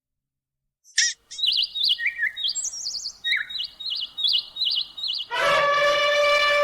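A songbird singing short, warbled whistled notes, about two a second, at varying pitches. About five seconds in, a loud, long call with a clear pitch starts and holds steady.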